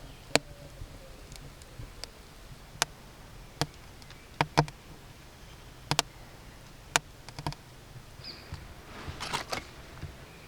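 Wood fire crackling in a homemade clay stove: sharp, irregular pops about once a second, with a short burst of rustling near the end.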